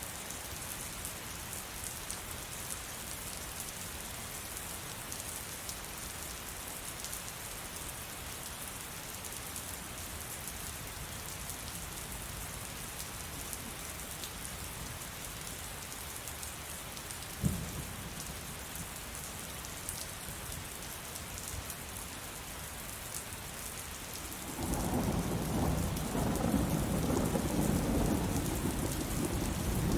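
Heavy rain falling steadily. A single sharp crack comes about halfway through, and near the end a loud rolling rumble of thunder sets in and continues.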